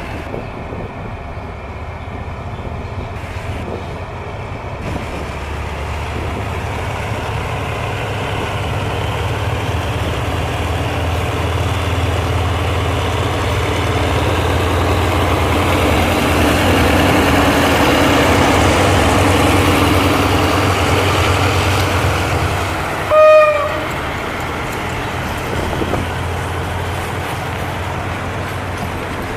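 GE GEA-class diesel-electric locomotive hauling a train out of the station: a steady low engine drone that grows louder and then eases, with one short horn toot about 23 seconds in.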